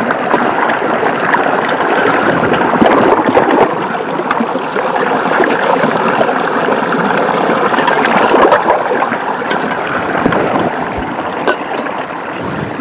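River water flowing close by: a loud, steady rush with some gurgling.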